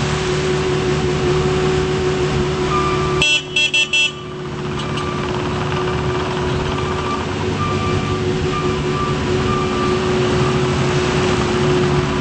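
Volvo MCT125 tracked skid steer loader's diesel engine running steadily, with its horn sounded in about four quick toots about three seconds in. Faint short beeps repeat through the middle.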